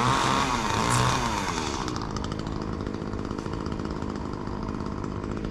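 Chainsaw running: it is revved twice in the first second or so, then settles to a steady, lower running speed.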